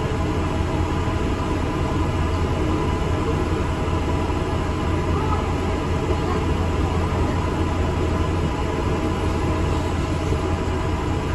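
Interior of an ADL Enviro 400 MMC double-decker bus on the move: a steady low engine drone with road and body rumble, even throughout.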